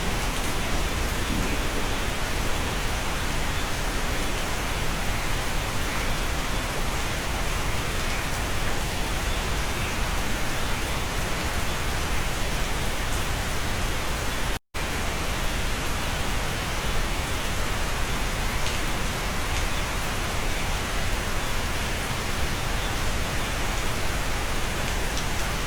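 Steady, even rain heard from inside a cabin, with no separate drops or rumbles standing out. About halfway through it cuts to silence for a split second, then carries on unchanged.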